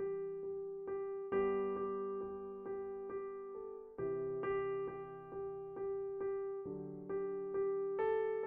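Intro music played on an electric piano: a gentle repeating pattern of notes over sustained chords that change every second or so.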